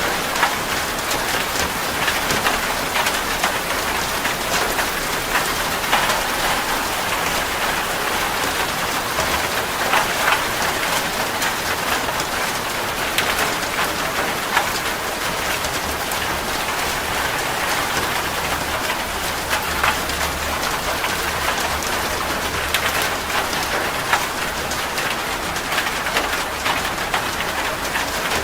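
Steady rain falling on a surface, with many separate drops striking throughout.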